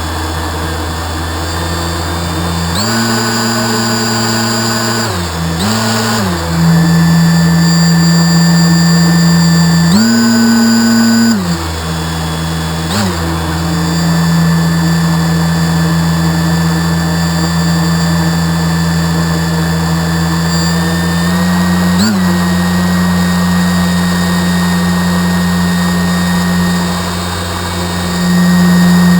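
Radio-controlled model boat's motor running steadily, stepping up in pitch and back down as the throttle is opened and eased off: up about three seconds in, down about two seconds later, the same again about ten seconds in, with short blips in between and a rise near the end.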